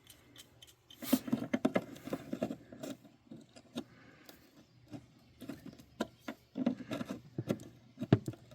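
Irregular clicks, light knocks and scrapes of hands and small hand tools working at wiring connectors and plastic parts around a van's heater blower motor, to get the heater out.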